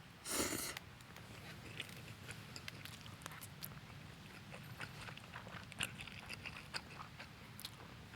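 A person eating close to the microphone: scattered small clicks of chewing and of a utensil, after a short noisy rustle about half a second in.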